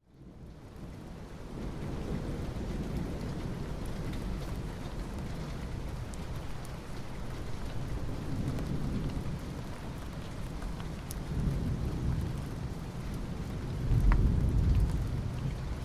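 Steady rain falling on asphalt, fading in from silence at the start, with low rumbles swelling under it several times, the loudest about 14 seconds in.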